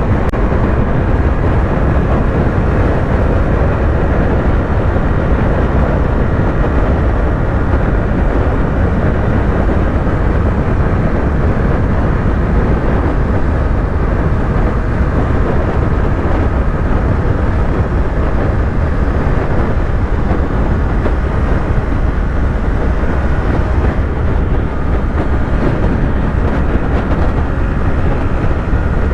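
Yamaha YZF-R3's parallel-twin engine running at a steady cruising speed on the highway, mixed with heavy wind and road rumble. The sound holds level throughout with no gear changes or revs.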